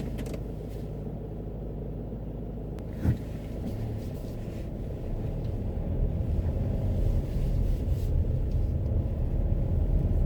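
Car driving: steady low road and engine rumble that grows louder from about halfway through, as if picking up speed. There is a short thump about three seconds in.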